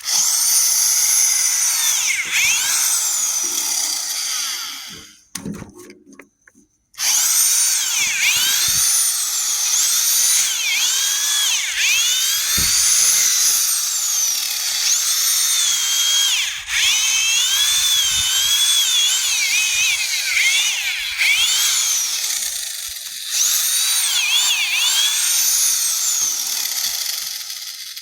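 Corded hammer drill driving an auger bit down into compost, its motor whine rising and falling in pitch as the load changes. It runs for about five seconds, stops briefly, then starts again and runs on.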